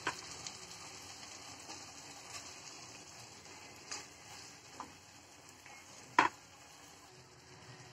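Faint sizzle of chicken pieces in a thick masala frying in a nonstick pan, with a few sharp clicks of a spoon against the pan, the loudest about six seconds in.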